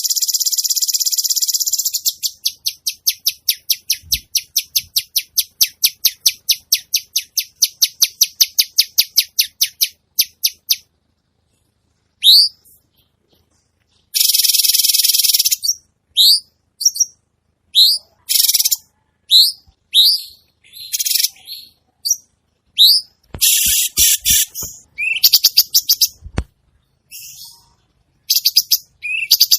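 Songbird song from a bird-song training recording of harsh, rasping phrases. It opens with a harsh buzzing phrase, then a long run of rapid repeated notes at about four a second. After brief pauses come sharp rising chirps about once a second, mixed with short harsh bursts.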